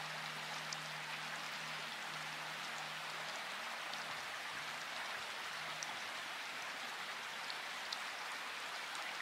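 Steady rain falling, with scattered single drops ticking sharply above the hiss. A faint low hum fades out within the first few seconds.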